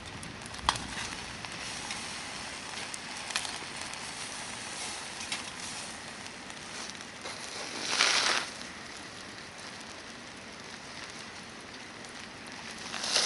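Hardwood campfire burning with a steady hiss and scattered sharp crackles and pops. About eight seconds in there is a louder rushing, crunching burst lasting about half a second.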